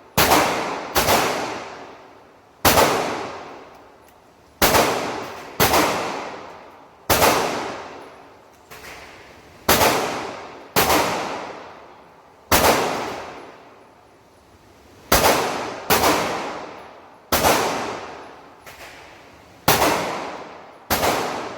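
Gunshots at a shooting range: about sixteen shots at uneven intervals, each a sharp crack followed by an echoing decay of about a second, a couple of them fainter than the rest.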